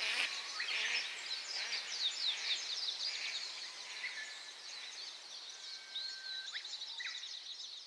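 Small birds chirping and twittering in quick high notes, with a few longer whistled notes, over the steady hiss of a clear mountain stream. It all fades slowly toward the end.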